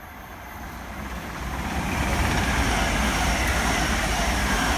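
A train passing close by: its noise builds over the first couple of seconds as it approaches, then holds loud and steady as it runs past.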